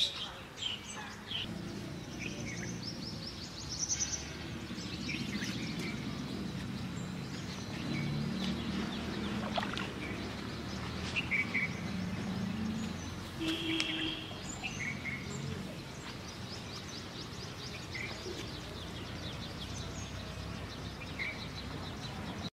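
Wild birds chirping now and then over steady outdoor background noise, with a low rumbling noise underneath through the first half.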